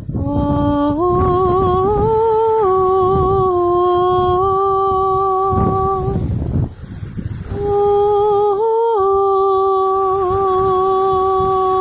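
A woman humming slow, long held notes with a gentle vibrato, stepping between a few pitches, in two phrases with a break for breath about six seconds in, over a low rumbling background noise.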